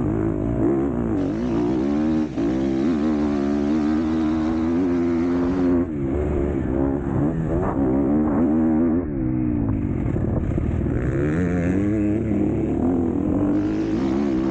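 MX2 motocross bike engine under race throttle, revs rising and falling constantly, with brief drops about two and six seconds in and a deeper dip a little past halfway before it climbs again.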